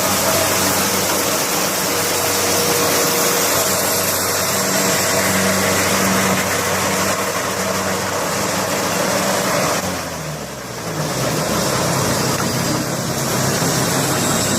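Engine of a farm harvesting machine running steadily, dropping briefly in pitch and level about ten seconds in before running on.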